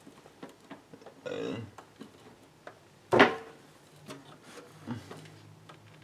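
Hands working cables and parts inside a desktop computer case: small clicks and rubbing, with one sharp knock about three seconds in.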